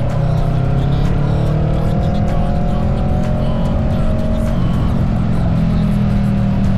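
Steady engine and wind rumble of a Honda Rebel motorcycle being ridden, with a higher engine tone that rises over the first few seconds and then eases off.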